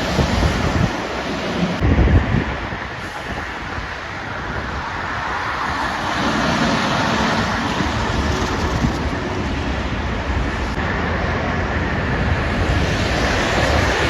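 Traffic passing at speed on a dual carriageway, a steady rush of tyre and engine noise. There is heavy wind buffeting on the microphone in the first two or three seconds.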